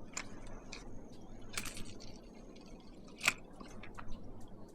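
Small splashes and drips of water, with one sharper splash a little past three seconds in.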